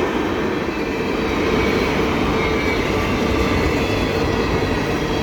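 Empty coal hopper cars of a freight train rolling past, a steady rumble of steel wheels on rail with a faint steady tone running through it.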